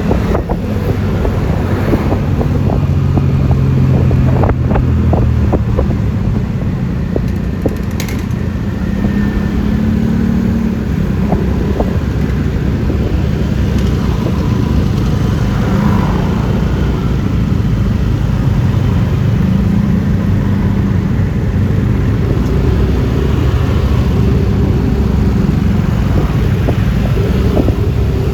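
Yamaha Lexi LX 155 scooter running under way, its single-cylinder engine note rising and falling with speed over steady road noise.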